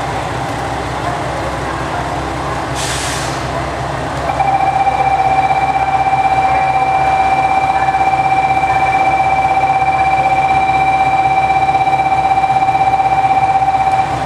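Running noise inside a JR Shikoku 2000 series tilting diesel railcar at speed. There is a short hiss about three seconds in. From about four seconds a loud, steady, high-pitched tone is held unchanged for about ten seconds and stops just before the end.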